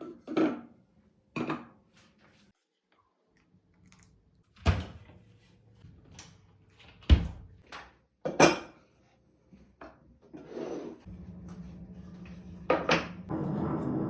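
Dishes and utensils knocking and clattering on a kitchen counter, a few separate sharp knocks, then a steady low whirring sound for the last few seconds.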